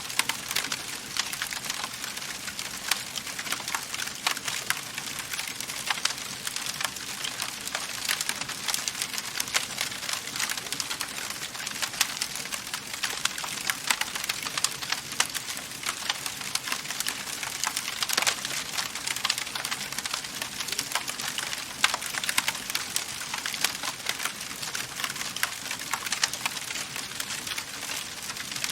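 Wood fire crackling in a fireplace: a steady hiss of burning with frequent sharp pops and snaps from the wood, a few louder ones standing out.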